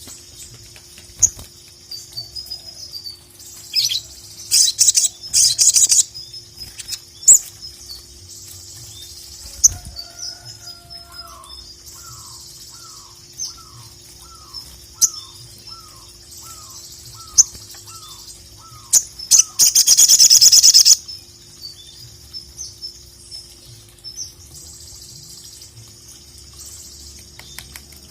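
Sogon (sogok ontong) singing: sharp, high chips and calls repeated through, a run of about a dozen lower downslurred notes in the middle, and a loud fast rattling trill lasting about two seconds near the two-thirds mark.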